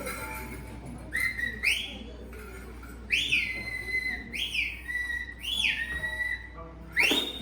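An animal making about six whistled calls, each sweeping sharply up in pitch and then gliding down. They come singly and in pairs, with the last one near the end.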